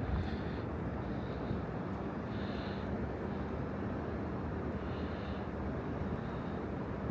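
Steady city street ambience: a constant traffic-like rumble with a faint low hum, and soft higher sounds coming and going every second or so.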